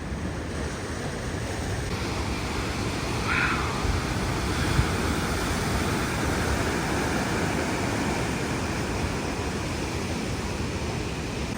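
Steady rush of ocean surf, with a short bump a little before the middle.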